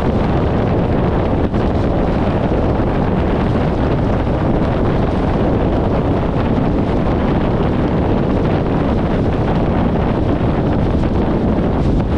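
Wind buffeting an exterior microphone on a car moving at highway speed, a steady dense rush that covers any engine and tyre sound.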